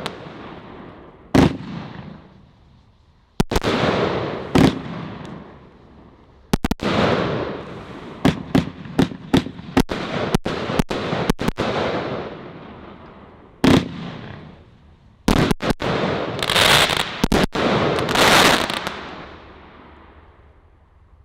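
76-shot firework barrage cake firing: sharp reports, each followed by a spreading crackle that fades away. A quick run of shots comes around the middle, a last volley follows, and then the sound dies away near the end.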